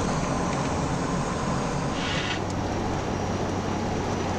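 Steady engine and road noise inside a hotshot truck's cab while driving, with a brief hiss about two seconds in.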